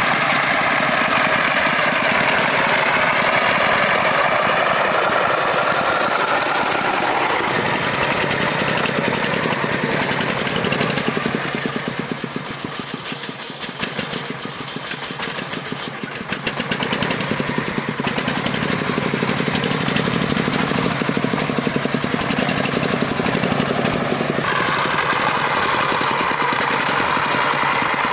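Farm truck engine running with a rapid, even pulsing beat. Its level drops for a few seconds around the middle, then picks up again, with shifts in pitch along the way as the load or speed changes.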